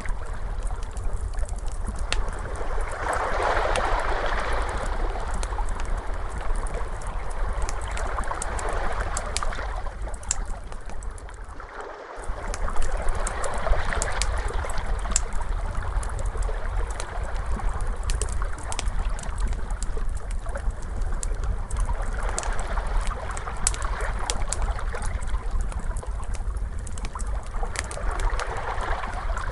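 Ocean waves washing in slow swells every few seconds, with a wood fire crackling in many sharp pops over a steady low rumble. About twelve seconds in the sound fades and drops out for a moment, then resumes.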